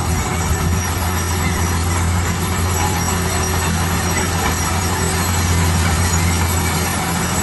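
Heavy construction machinery running: a steady low engine drone with a constant broad noise over it, unchanging throughout.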